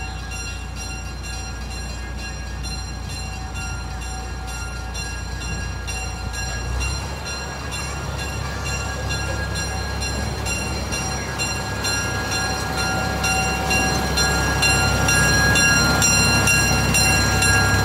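Amusement-park train running on its track, growing steadily louder, with a low rumble under a set of steady high tones.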